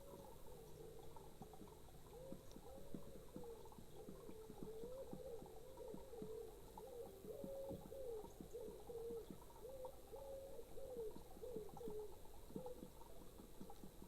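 A pigeon cooing: a long run of low coos, each note rising and falling, repeated one after another.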